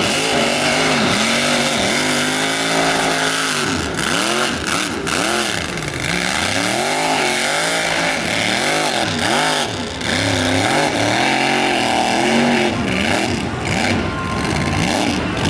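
High-horsepower mud truck's engine revved hard again and again, its pitch rising and falling in quick swells of about a second each.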